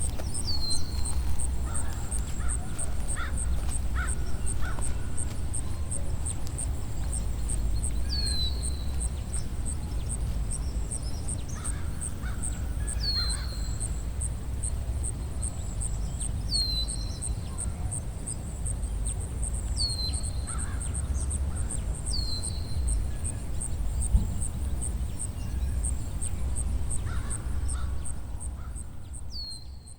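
Woodland ambience: crows cawing now and then, and a bird repeating a short downward-sliding call every few seconds over a steady, fast-pulsing high trill and a low rumble. It all fades out near the end.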